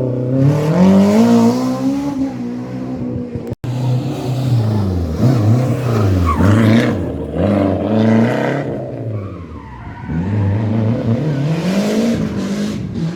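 Historic rally car engine at full throttle on a stage, its note climbing, dropping and climbing again several times as the driver works the throttle and gears. The sound cuts out for an instant about three and a half seconds in.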